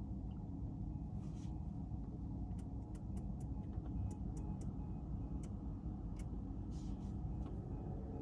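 Car driving: a steady low rumble of engine and road noise, with about nine sharp, irregular ticks in the middle and two brief soft hisses.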